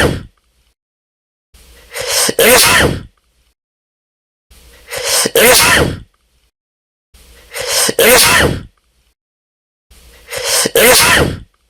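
A sneeze, the same loud sneeze repeated four times about every three seconds, each a short in-breath building into a sharp burst, with dead silence between.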